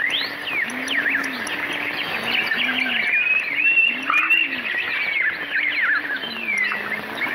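Many small songbirds chirping and singing at once, short overlapping chirps and trills that run without a break. Underneath, a lower rise-and-fall call repeats every second or so.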